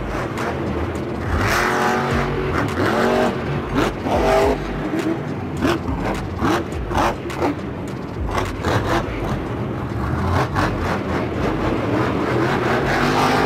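Monster truck's supercharged V8 engine revving hard, rising and falling in pitch, with repeated sharp bangs.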